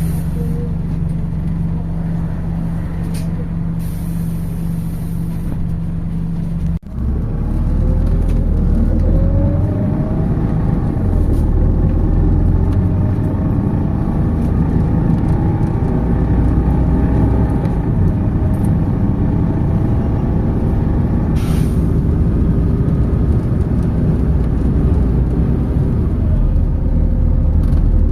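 MAZ 206 city bus heard from inside: a steady low engine hum with a few short hisses of air. After a sudden break about seven seconds in, the bus pulls away with a rising engine and transmission whine, then settles into steady running.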